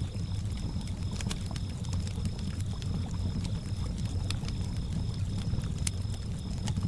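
Campfire crackling with scattered sharp pops over a low, steady wash of lake water lapping, with crickets chirping in an even, repeating rhythm.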